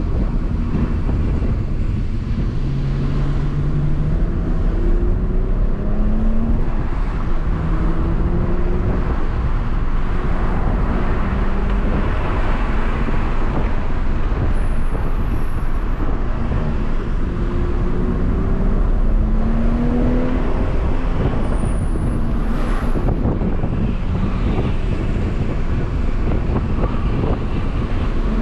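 BMW M140i's turbocharged 3.0-litre straight-six engine pulling hard under acceleration, heard from inside the cabin. Its pitch rises in repeated short pulls over heavy, steady road and tyre noise.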